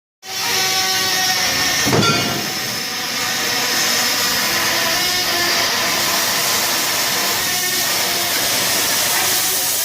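Steady loud rushing hiss of a furnace's exhaust hood and dust-collector fan running. It starts abruptly, with a brief louder whoosh about two seconds in.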